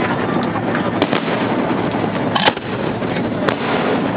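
Fireworks show heard up close: a dense, continuous crackle and rumble of shells bursting, with sharp bangs about one, two and a half, and three and a half seconds in.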